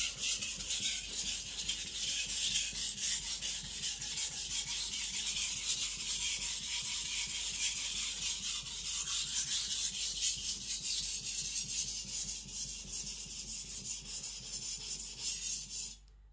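Aogami carbon-steel gyuto blade scraped back and forth on a Naniwa Professional 400-grit whetstone in rapid continuous strokes, grinding the bevel to a lower angle. The sound cuts off suddenly at the very end.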